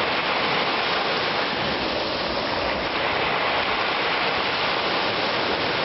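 Sea surf washing onto the beach: a steady, unbroken rushing of waves.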